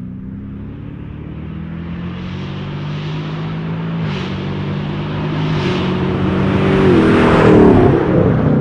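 2021 Chevrolet Camaro SS's 6.2-litre V8 through an AWE Track Edition axle-back exhaust, accelerating hard through the gears, its pitch stepping down at each upshift as it grows louder. It passes by near the end, the sound peaking and then dropping in pitch and level.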